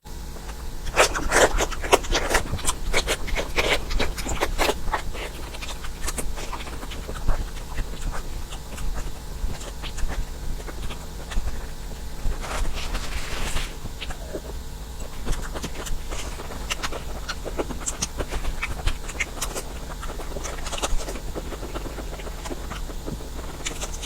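Close-miked eating sounds: irregular wet chewing and smacking clicks with crackly bites, busiest in the first few seconds, over a steady low hum.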